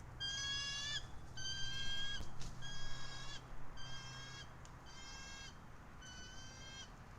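Bald eagle calling: a run of high, whistled notes, each just under a second long, repeated about every second, over a low steady hum.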